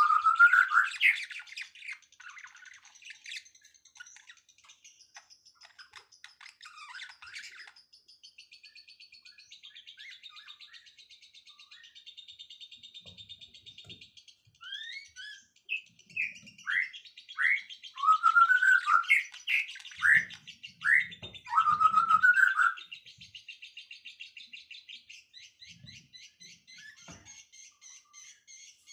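Songbirds singing: a continuous rapid, high twittering trill, over which louder clear whistled notes come near the start and again in a run of short sliding notes from about halfway in until roughly three quarters through.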